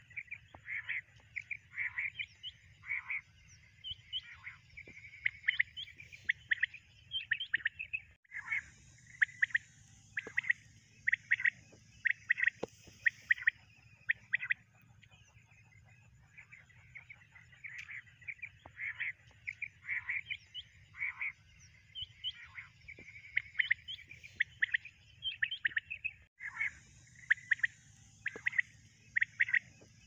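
Birds calling: quick runs of short chirping calls, several a second, with brief lulls about eight and sixteen seconds in.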